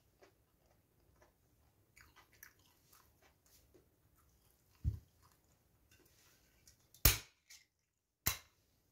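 Soft chewing and small mouth and hand noises of someone eating rice with fried eggplant and omelette. There is a dull thump about five seconds in, and two sharp clicks about a second apart near the end, the loudest sounds.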